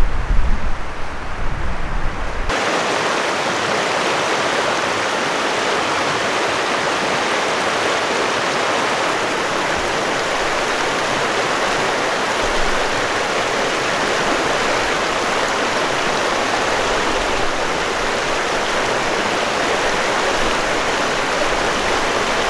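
Steady rush of flowing river water, even and unbroken. For the first couple of seconds a low wind rumble on the microphone lies over it; then it cuts suddenly to the clear rush of the current.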